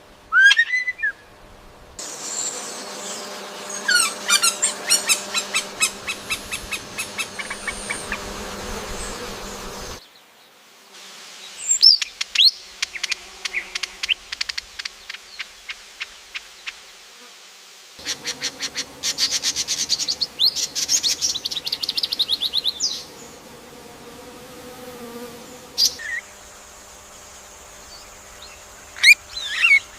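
Birds calling and singing: short sharp rising whistles and fast rattling trills of rapidly repeated notes. The background changes abruptly every eight seconds or so, as one recording gives way to the next.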